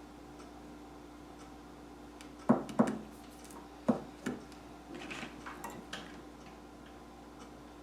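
Small hard objects knocked and set down on a work table: two sharp knocks about two and a half seconds in and two more a second later, then a second of light clicking and rustling. Under it, a faint tick about once a second and a steady hum.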